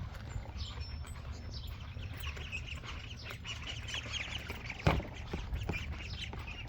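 Young poultry peeping, with many quick high chirps overlapping, and one sharp knock about five seconds in.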